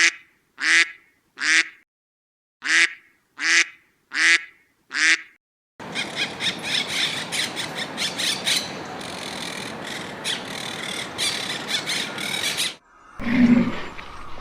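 A duck quacking seven times, about 0.7 s apart, in runs of three and four. About six seconds in, a red parrot takes over with a dense run of harsh squawks and chatter lasting about seven seconds. Near the end comes a short, low call.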